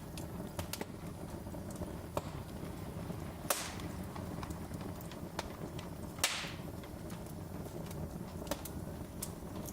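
Wood fire crackling in a fireplace: a steady low rumble of flames with many small sharp clicks, and two louder hissing pops, one about three and a half seconds in and one a little past six seconds.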